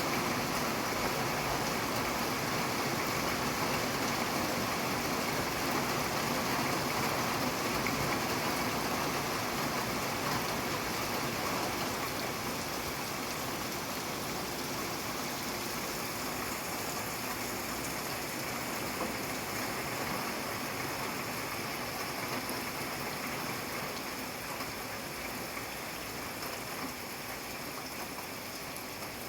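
Steady rain falling, an even hiss of drops with no breaks, easing slightly in loudness over the second half.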